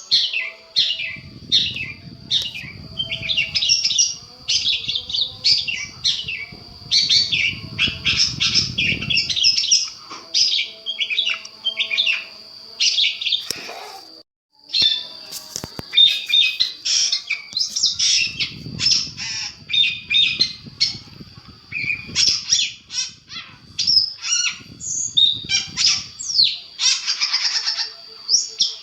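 Long-tailed shrike (cendet) song: a fast, unbroken string of varied, harsh chattering and chirping phrases over a continuous high thin tone, with a brief break about halfway through.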